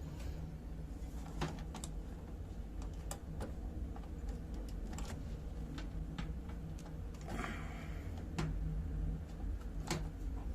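Scattered small clicks and a brief scrape of plastic wire connectors being worked loose from a washing machine's control-board connector by hand, over a steady low hum.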